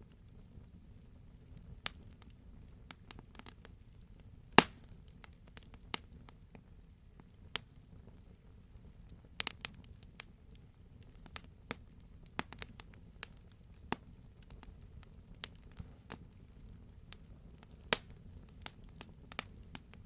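Wood fire crackling: irregular sharp pops and snaps, a loud pop about four and a half seconds in, over a low steady rumble of the burning fire.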